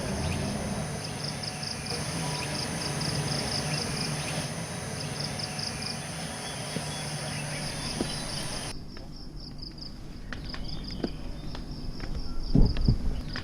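Rainforest insects chirring in a fast, pulsing high trill, with a second steady, higher insect drone that cuts off abruptly about two-thirds of the way through. A low rumble sits beneath in the first part, and a dull low thump comes near the end.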